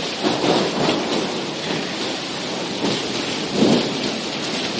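Heavy rain falling steadily, with a couple of louder swells about half a second in and near the end.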